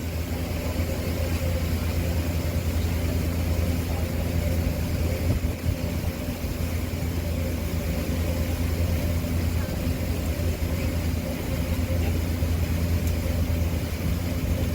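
Ferry boat's engine running steadily under way, a constant low drone with a rushing wash of wind and water over it.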